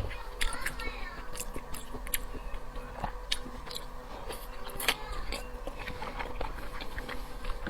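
A person chewing seafood close to the microphone: wet mouth clicks and smacks at irregular intervals.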